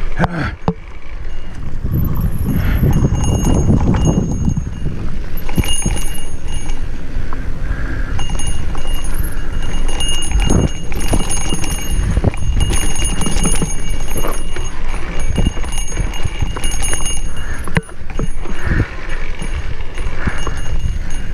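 Wind buffeting the microphone in a heavy low rumble, with a mountain bike clattering and knocking over rough dirt singletrack as it descends.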